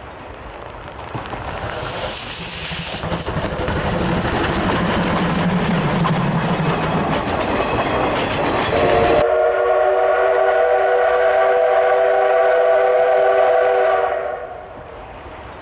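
Steam locomotive C12 66 passing close by with a fast, loud run of exhaust beats and wheel noise. About nine seconds in, a long blast of a multi-tone steam whistle starts suddenly, holds for about five seconds and fades away.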